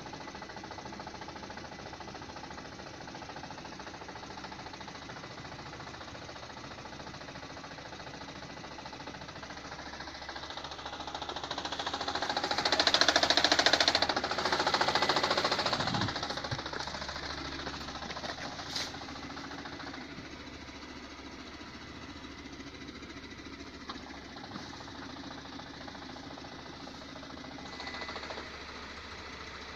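Lada Granta engine running with a rapid knocking from the manual gearbox; the noise swells louder for several seconds about halfway through, then settles back. The knock is the gearbox fault the owner cannot explain: it disappears when the clutch is pressed, while the engine itself runs rough and shakes.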